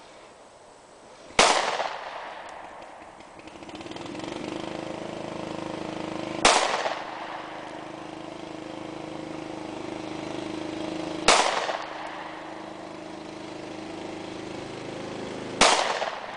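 Springfield Armory XD 9mm semi-automatic pistol fired four times, single shots spaced about four to five seconds apart, each a sharp crack with a short echo. A steady low hum sets in after the first shot.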